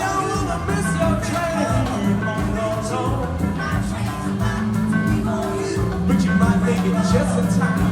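Live rock band playing loud, with electric guitar, drums and bass.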